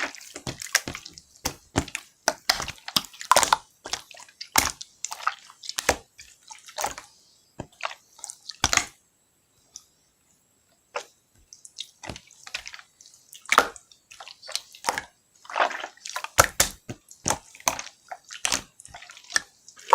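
Slime being squeezed and stretched by hand, making irregular wet clicks and pops, with a pause of about two seconds near the middle.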